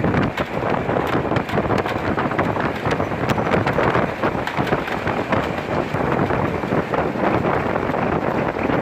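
Wind blowing hard across the microphone: a loud, steady rush with fine crackling.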